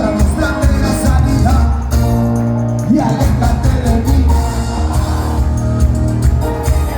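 Live cuarteto dance music: a band with a heavy, steady beat and a male singer over it. About two seconds in the voice holds a long note, then slides up into the next phrase.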